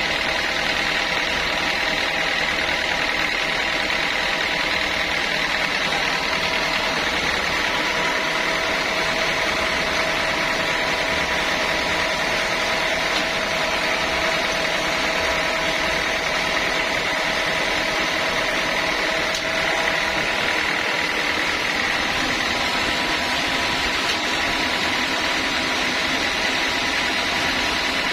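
Sawmill machinery running steadily: a constant mechanical drone with a steady high whine that neither starts nor stops.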